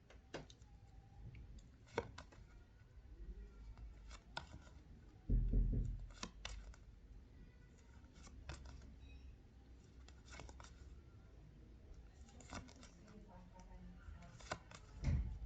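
Paper flash cards being handled and flipped: scattered soft clicks and rustles, with a dull low thump about five seconds in and another near the end.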